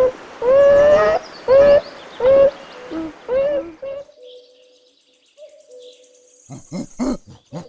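Groundhog calling: a run of about six short, pitched calls in the first four seconds, some rising in pitch, one longer than the rest. Faint after that, with a few short knocks near the end.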